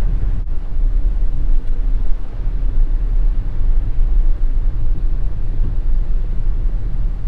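Steady low engine and road rumble heard from inside the cabin of a Mitsubishi Delica Mini kei car, with a momentary dropout about half a second in.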